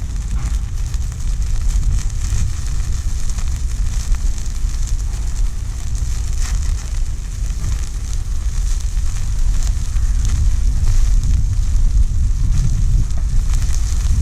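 A wood campfire crackling and hissing, with meat sizzling over it, under a steady low rumble.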